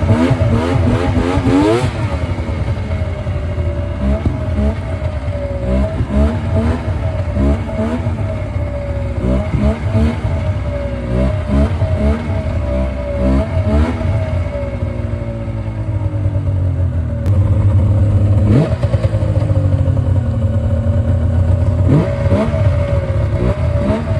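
Yamaha VMAX three-cylinder two-stroke snowmobile engine running and being blipped over and over, the revs rising and falling, with a bigger rev near the end. It is not running happily: it is lean, and the choke has to be kept on to keep it running.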